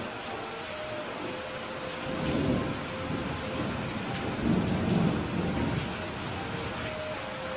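Steady rain falling, with thunder rumbling twice: once about two seconds in and again, louder, a little before the five-second mark.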